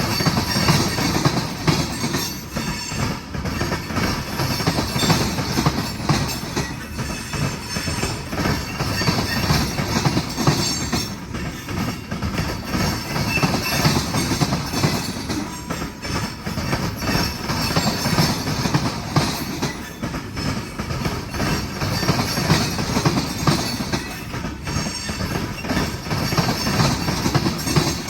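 A long freight train's cars, mostly tank cars, rolling steadily past, their wheels clattering rapidly over rail joints with a high wheel squeal at times.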